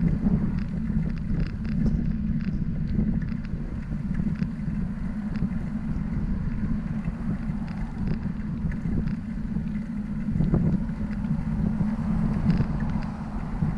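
Steady low wind rumble on the microphone of a camera riding on a moving bicycle, with scattered light clicks and rattles.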